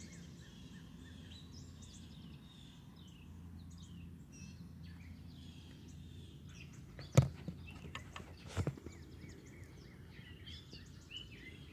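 Small songbirds chirping and twittering over a low steady background hum, with two sharp knocks a little past the middle, the first the loudest sound.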